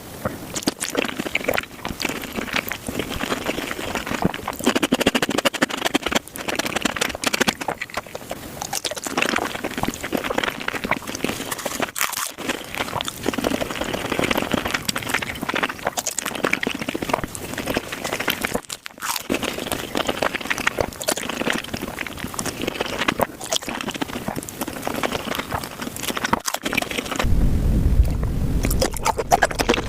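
Close-miked eating sounds of raw shrimp being chewed: a dense run of quick wet crackles and clicks. A low rumble joins in near the end.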